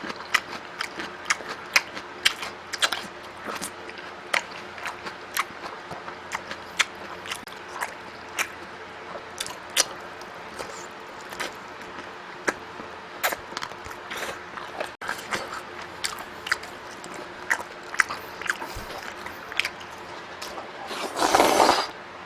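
A person eating close to the microphone: chewing and biting with a steady stream of sharp, wet mouth clicks and smacks. Near the end comes one louder rushing burst lasting about a second.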